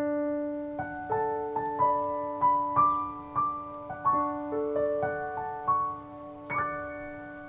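Piano music: a slow melody of single struck notes, about two a second, over a held low note, each note fading away.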